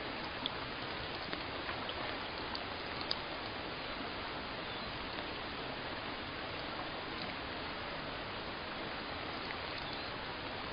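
Steady rain falling, an even hiss with a few sharper drop ticks, about half a second and three seconds in.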